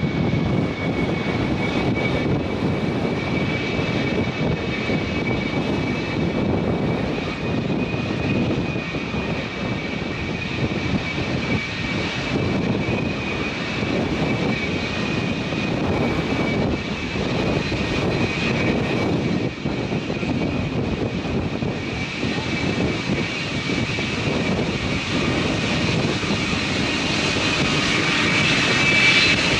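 Jet airliner's engines running: a steady rush with a high whine held just above 2 kHz, growing louder near the end.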